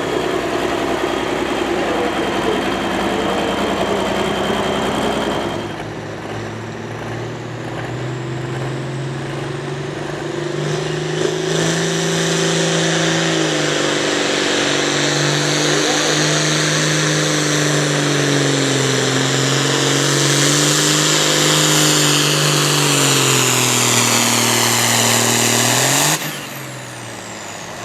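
Turbocharged diesel pulling tractor at full power down the pulling track: a steady heavy engine note that wavers in pitch for about twenty seconds, with a high turbo whistle above it. Near the end the engine sound cuts off abruptly and a high whistle falls away. This follows several seconds of steadier engine noise at the start.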